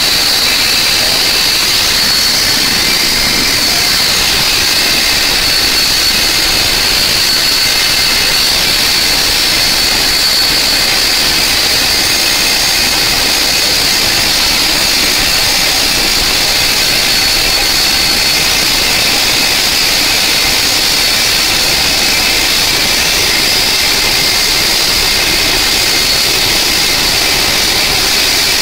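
Helicopter's turbine engine running steadily with a high, even whine over a broad rushing noise.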